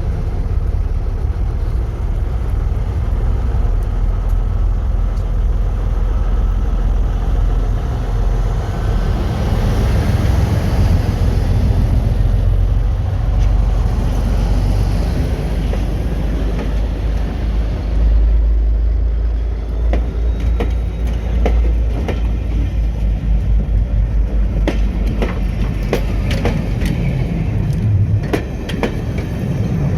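Heritage diesel train running: a steady, loud low engine rumble, with a string of sharp clicks and knocks in the second half.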